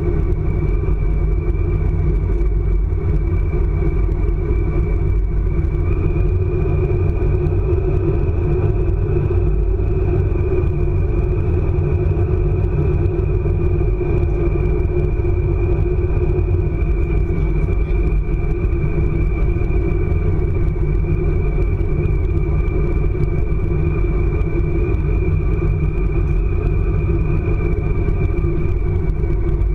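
ICE high-speed train running at speed, heard from on board as a steady, even rumble with a thin high tone held above it.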